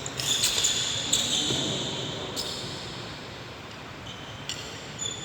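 Badminton rally: sharp racket hits on the shuttlecock, several close together in the first second and single ones spaced out later, each followed by a brief high squeak.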